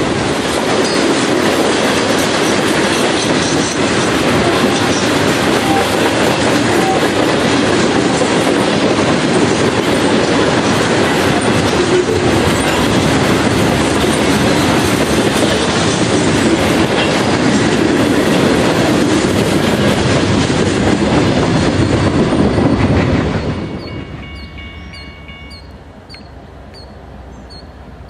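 Freight train of CSX hopper cars rolling past at close range: a steady rumble and clatter of wheels on the rails. A little over 23 seconds in it drops off suddenly to a much quieter background with a faint high chirp repeating at an even pace.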